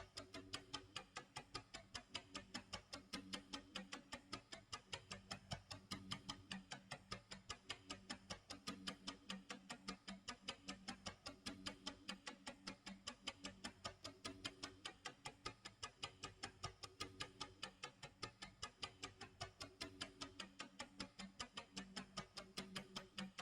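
Clock tick-tock sound effect: faint, rapid, perfectly even ticking that runs without a break, over a soft low hum that comes and goes every couple of seconds.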